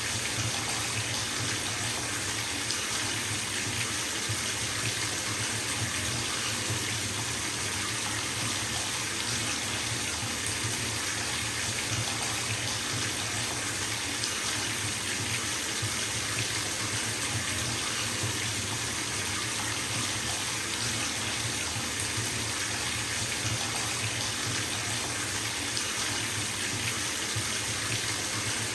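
Bathtub tap running steadily into the tub as it fills, an even rush of splashing water with no breaks.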